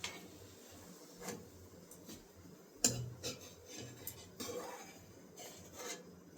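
Cooking utensils knocking and scraping against cookware: several sharp clinks, the loudest about three seconds in, with a short scrape a little later.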